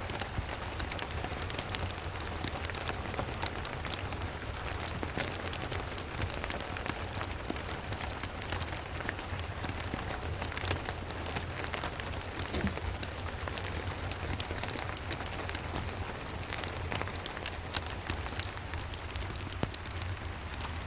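Steady rain pattering, with fireplace crackle mixed in as a dense scatter of small sharp clicks, over a steady low rumble.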